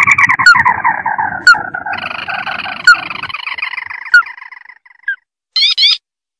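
Recorded lure call of a crake: a long chattering trill that slowly falls in pitch over about five seconds, followed near the end by a short burst of higher rising notes.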